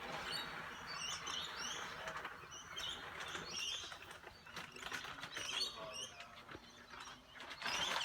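Lorikeets chattering as they come in to feed: many short, high, rising chirps overlapping. A few brief noisy rustles come near the end.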